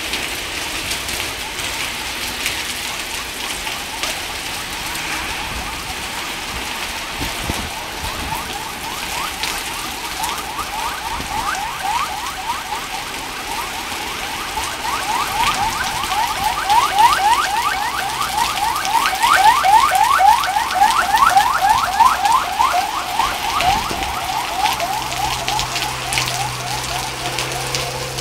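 Steady rain falling, with a car alarm sounding over it from about a third of the way in. The alarm is a fast string of short rising whoops that grows louder, then fades near the end.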